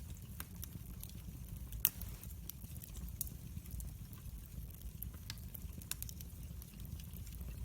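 Wood fire crackling in a fireplace: irregular sharp pops and snaps over a low, steady rumble of the flames, with one louder pop a little under two seconds in.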